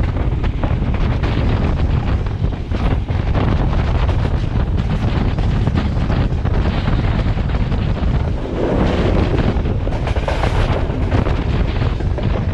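Express train running at speed, a steady loud rush of wheel and track noise with wind buffeting the microphone.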